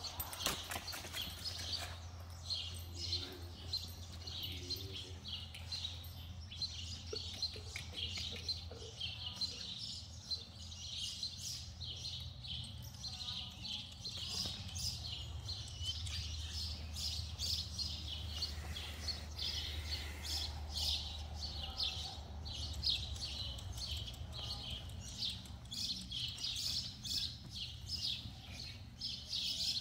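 Small birds chirping continuously in many short, high chirps over a low steady hum.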